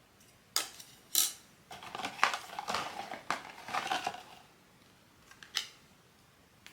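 Hands handling a blind-box toy and its packaging: two sharp clicks, then a couple of seconds of clattering and rustling, and one more click near the end.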